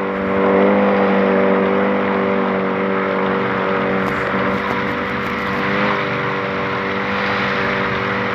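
Jet ski engine running at a steady speed, an even engine hum with a rushing noise over it, the pitch rising slightly about half a second in and otherwise holding steady.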